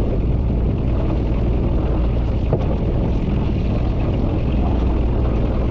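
Small fishing boat's engine running steadily at idle, a low even hum.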